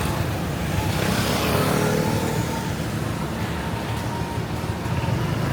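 City street traffic: a steady rumble of passing cars and motorbikes.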